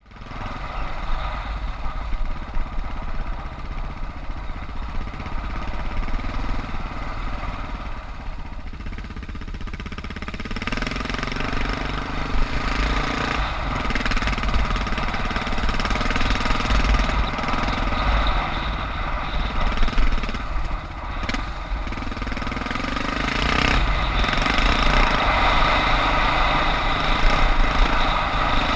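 Suzuki DR650's single-cylinder engine running as the motorcycle is ridden, its note shifting several times and getting louder over the second half.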